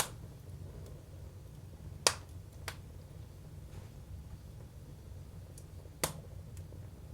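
Firewood burning in a Jøtul F305 wood stove, crackling with sharp single pops every second or few, the loudest about two seconds in, over a steady low rumble of the fire.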